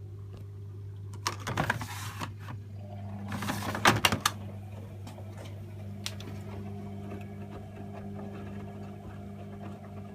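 AEG Öko-Lavamat 76730 front-loading washing machine running with a steady motor hum. About one and a half seconds and again about three and a half seconds in there are two short bursts of rattling noise, and a second, higher hum joins after the second burst.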